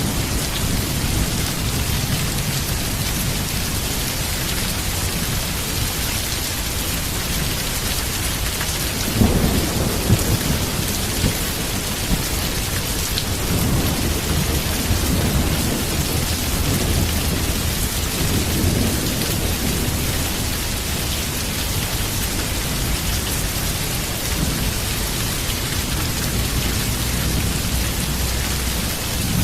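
Heavy rain pouring steadily, with thunder rumbling low underneath. A louder roll of thunder comes about nine seconds in, with a few sharper peaks over the next two seconds.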